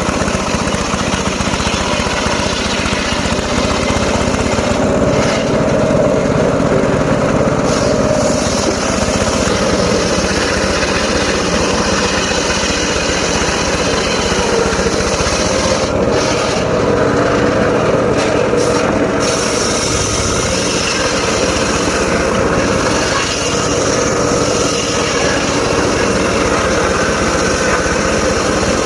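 Engine-driven mobile circular saw running steadily and loudly.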